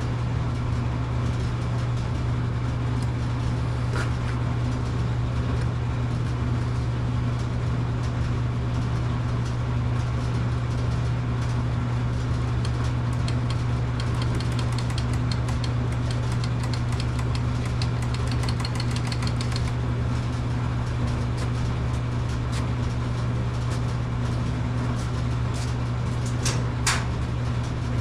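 Tecumseh small single-cylinder engine on a Craftsman pressure washer running steadily on its swapped carburetor, with an even, unbroken hum. A brief sharp click sounds about four seconds in and again near the end.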